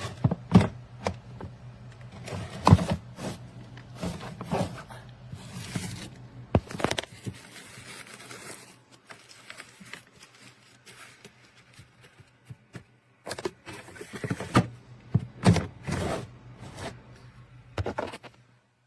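Plastic pull-out pee-pad tray of a Breeze litter box being slid out and handled: scrapes and sharp plastic knocks at irregular intervals. A low steady hum runs underneath and stops near the end.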